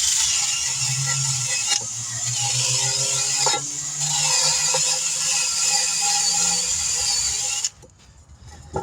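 Power tool scouring a wheel rim clean before a new tire goes on: a steady grinding hiss over a low motor hum. It stops abruptly about a second before the end.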